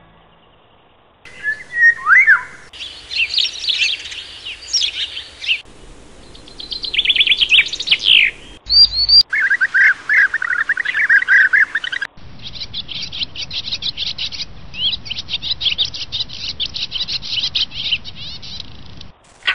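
Songbirds singing: a run of short, different song phrases that cut in and out abruptly, the last a long, fast, evenly repeated trill.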